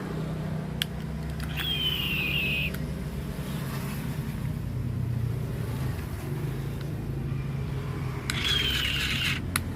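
Steady low engine-like hum in the background, with a few sharp plastic clicks as batteries are fitted into a toy's battery compartment. Two short falling squeals, each about a second long, come near the start and near the end.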